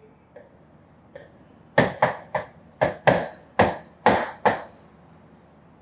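Writing on a classroom board: a run of about ten sharp taps and short scratches over roughly three seconds, with a faint scratchy hiss before and after.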